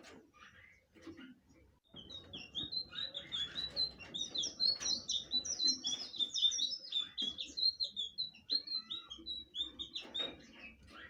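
Blue flycatcher singing: a long, fast run of short, high, warbled notes that starts about two seconds in, is loudest in the middle and tails off near the end, with a few quieter chirps before it.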